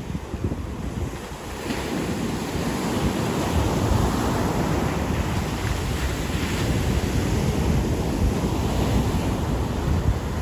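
Ocean surf washing onto a beach, a continuous rush of breaking waves that swells about two seconds in, with wind buffeting the microphone.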